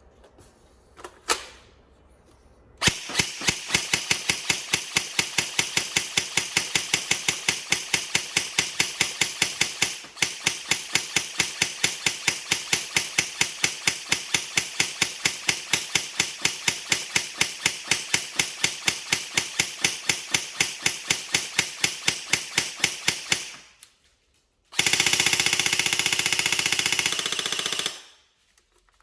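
G&G Firehawk airsoft electric gun (AEG) test-firing on an 11.1 V LiPo after a gearbox repair: a click, then a long string of single shots at about four to five a second, then, after a pause, one full-auto burst of about three seconds. The gearbox cycles cleanly with no screeching.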